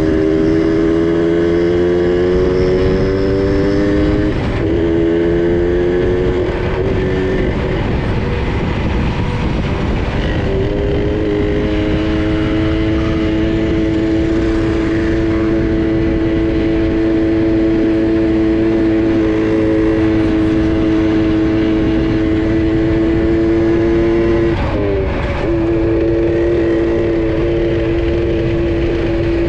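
Small two-stroke minibike engine under way. Its pitch climbs as it accelerates over the first few seconds and drops about four seconds in, then it holds a steady cruising note. Near the end the note wavers briefly and dips before steadying again.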